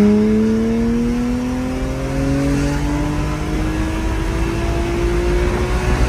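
BMW car's engine accelerating through a single gear, its pitch climbing steadily, heard from inside the cabin.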